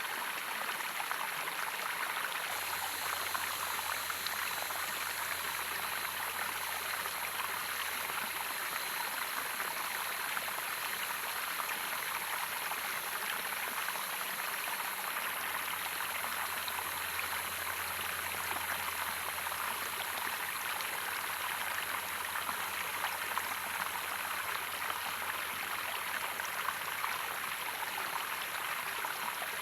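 Running water of a natural watercourse, a steady, unbroken flow.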